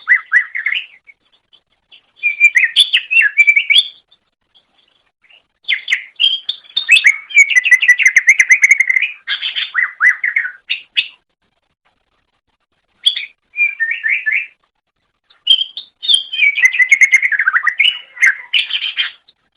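Cucak ijo, a green leafbird, singing: rapid chattering phrases of quick chirps and trills in about five bursts, separated by short pauses.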